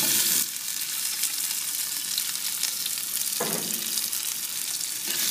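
Cut red potatoes sizzling in a hot dish on the grill, with a loud burst of sizzling as they go in and another brief surge about three and a half seconds in.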